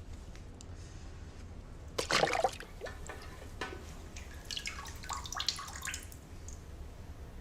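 A splash in toilet water about two seconds in, followed by scattered drips and small splashes, as a mobile phone drops into a toilet bowl.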